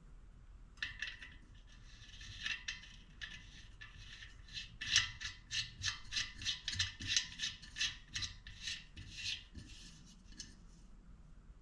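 Freehub of a bicycle wheel's rear hub ratcheting in short rasping strokes, about three or four a second, as it is turned by hand, loudest in the middle.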